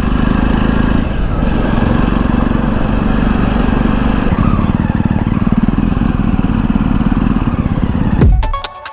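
Jawa motorcycle engines running steadily with a fast low pulsing beat, cutting off suddenly near the end.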